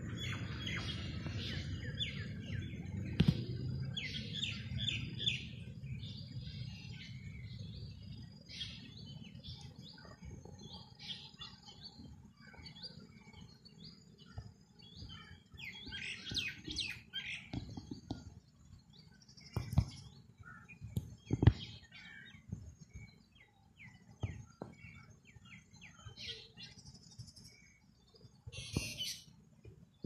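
Wild birds chirping in short, quick repeated notes from several directions. A low rumble fades over the first several seconds, and a few sharp knocks stand out, the loudest about two thirds of the way through.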